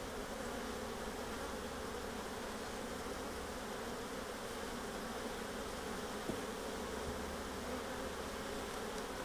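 Steady buzzing hum of many honeybees at an open hive, with a couple of faint light knocks midway.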